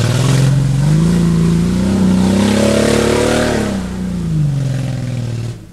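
Jeep ZJ on 38-inch mud tyres at full throttle, its engine revving and rising in pitch for about three seconds, then falling away. Spinning tyres throw mud, heard as a hiss over the engine.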